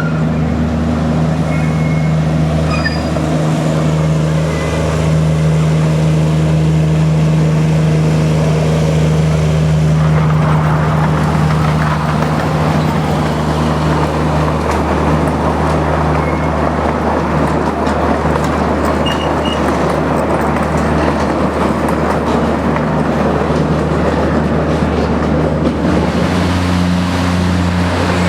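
Miniature railway locomotive, a model of a DX-class diesel, running with a steady engine drone. About ten seconds in, a louder rushing noise of the moving train joins it, and near the end the engine note shifts.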